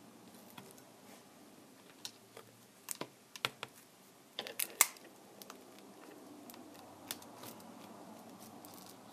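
Irregular small clicks and taps of hand tools and plastic parts being handled while working on a Kindle Fire tablet, bunched up in the middle with the sharpest click about five seconds in.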